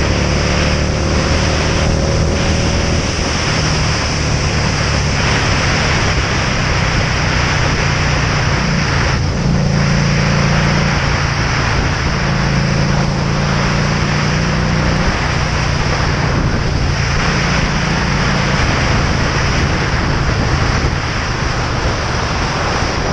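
Motorcycle engine running under way, its pitch stepping up and down a few times, under heavy wind noise on the camera's microphone.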